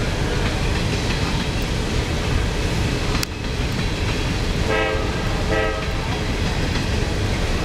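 Freight train of coal hopper cars rolling past, a steady rumble of steel wheels on rail, with two short horn toots about five seconds in.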